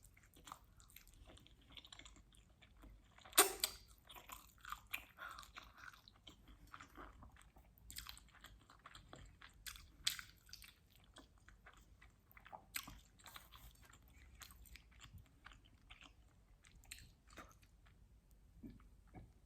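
Close-miked chewing of quattro stagioni pizza: irregular wet mouth clicks, bites and crunches of crust, the sharpest crunch about three and a half seconds in.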